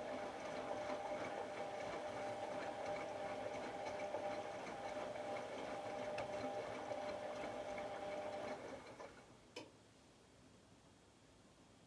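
AEG Lavamat L74810 washing machine running a small motor or pump with a steady whine that stops about eight and a half seconds in, followed a second later by a single click.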